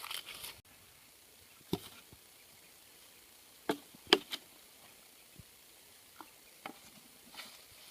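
A few sparse, sharp clicks and knocks from materials being handled and worked by hand, the loudest pair a little past the middle.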